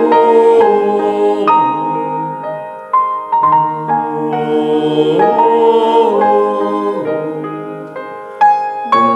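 Vocal ensemble singing sustained chords, several voices holding notes together and moving to a new chord about every second, with a few sliding notes midway.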